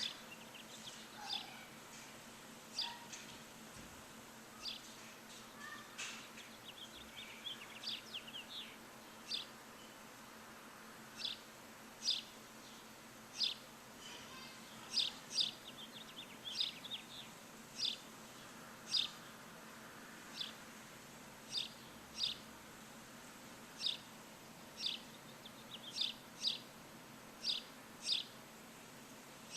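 A bird chirping over and over: short, high, downward-sweeping chirps about once every second or so, with a couple of quick rattling runs of notes in between, over a faint steady hum.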